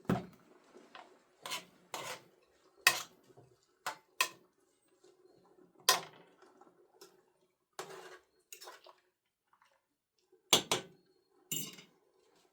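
About a dozen sharp clinks and knocks of hard objects being handled, irregularly spaced, the kind of clatter made by setting down or moving dishes and utensils.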